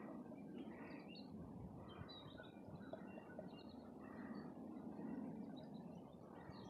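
Faint, scattered bird chirps, short high notes coming every second or so, over a quiet open-air background.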